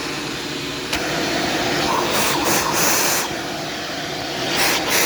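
Shark Stratos upright vacuum cleaner running, its airflow hissing steadily. A sharp click about a second in, after which the rush of air gets brighter, with surges of hissing later on.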